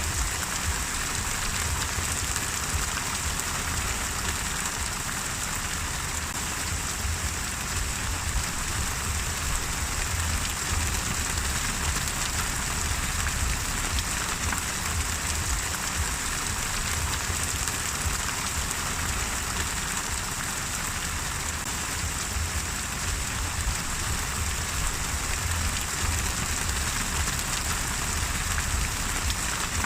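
Steady rain falling and pattering on a surface, an even hiss with a low rumble beneath and scattered drop ticks.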